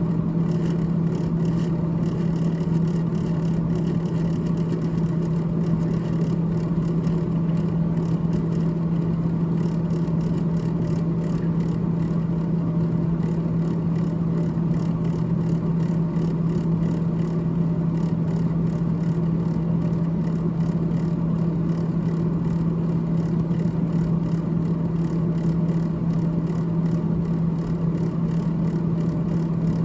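GE GTH18XCTZRBB refrigerator's freezer fan running with a steady, even hum that holds one low pitch, over a faint airy whir.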